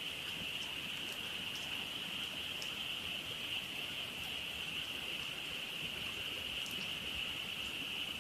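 A chorus of many frogs calling together in a dense, unbroken high-pitched trill, with a few faint scattered pops from a crackling campfire.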